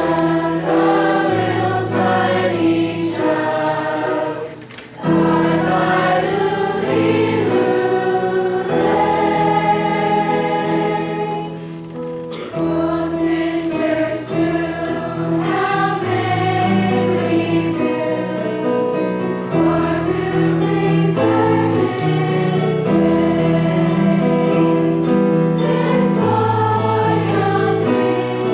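A choir singing a Christmas carol, with steady low held notes underneath. The music breaks off briefly about four and a half seconds in.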